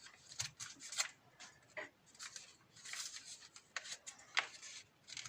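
A sheet of paper being folded and creased by hand, with irregular crackles and rustling.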